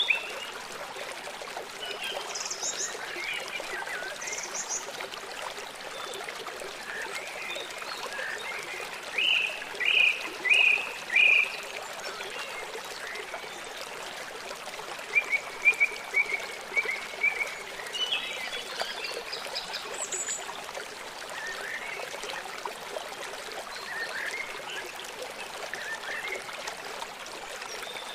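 Small songbirds chirping over a steady rush of running water. Four loud chirps come about ten seconds in, and a quick run of notes a few seconds later.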